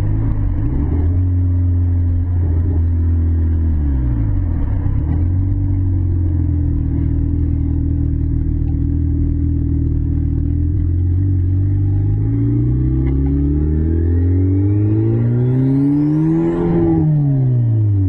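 Car engine heard from inside the cabin while driving. Its pitch dips and recovers a few times early on, holds steady, then climbs for several seconds, with a faint high whine rising alongside, before falling away sharply near the end.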